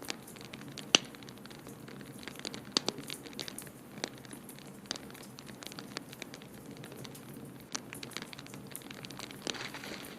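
Wood fire crackling in a fireplace, with scattered sharp pops over a steady low background noise. The loudest pop comes about a second in.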